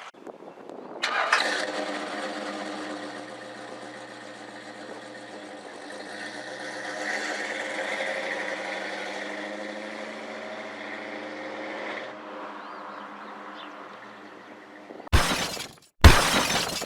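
Car engine catching about a second in and running steadily, its pitch rising briefly in the middle, then cutting off suddenly. Two short, loud noises follow near the end.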